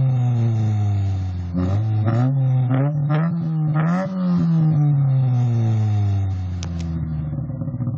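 1997 Kia Sephia's four-cylinder engine revved through an M K Power aftermarket exhaust. The revs go up in a few short blips, then climb to a peak about four seconds in. After that they fall slowly back to a steady idle.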